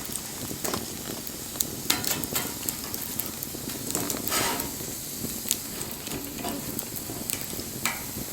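Wood fire crackling, with a steady hiss and sharp pops and snaps at irregular moments; a longer hissing flare comes about four seconds in.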